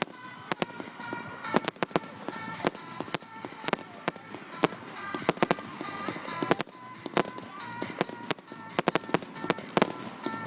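Fireworks display: a rapid, irregular string of sharp bangs and crackles from bursting aerial shells, with music playing underneath.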